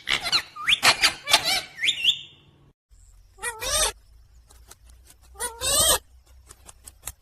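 Pet parrot calling: a quick run of arching, squawky calls in the first two seconds, then two shorter calls about halfway through and near the end, with light clicks in between.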